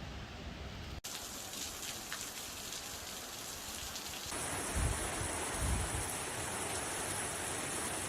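Heavy rain falling: a steady hiss of water that changes character abruptly at two cuts between clips. Two dull low thumps sound about halfway through.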